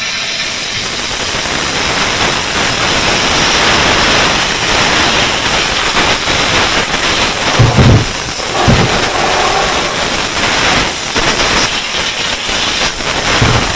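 Loud, steady rushing hiss of a spray, with two short low thumps about eight seconds in.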